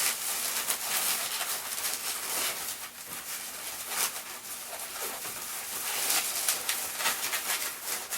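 Inflated latex 260 modelling balloons rubbing and squeaking against each other and against hands as they are twisted together.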